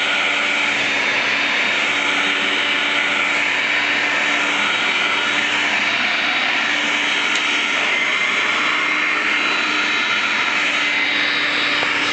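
Hoover Conquest upright vacuum cleaner running steadily, its motor giving a constant whine with no change in pitch.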